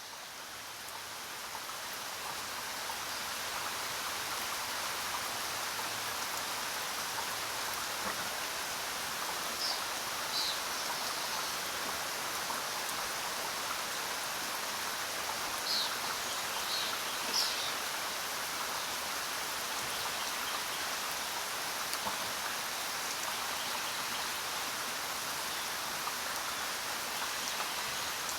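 Steady rain, an even hiss that swells in over the first few seconds. A bird gives a few short high chirps about ten seconds in and again a little past the middle.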